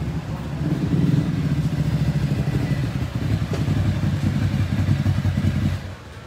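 A motorcycle engine running with a low, rapid pulsing, cutting off suddenly near the end.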